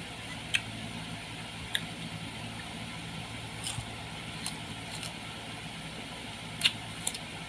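Sharp, crisp crunches of raw fruit being bitten and chewed, about seven of them spread out, the loudest near the end, over the steady hum of an electric fan.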